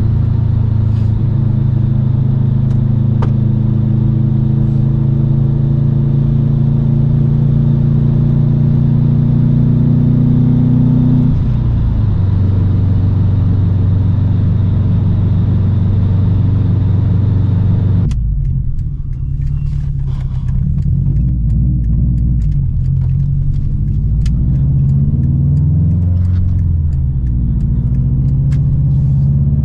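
2008 Subaru STI's turbocharged flat-four running through an Invidia catted downpipe and N1 cat-back exhaust, a steady drone that climbs slowly in pitch and then drops about eleven seconds in. From about eighteen seconds the note goes duller and wavers up and down with the throttle.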